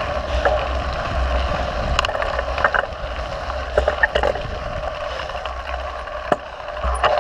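Mountain bike riding on a trail heard from an on-bike or helmet camera: a steady rumble of wind and tyre noise with scattered clicks and rattles from the bike.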